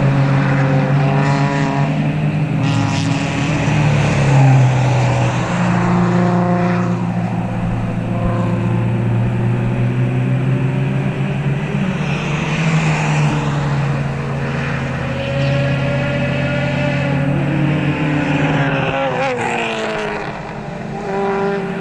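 Several club race cars passing at speed, their engines revving hard, with overlapping notes rising and falling through gear changes as cars come and go.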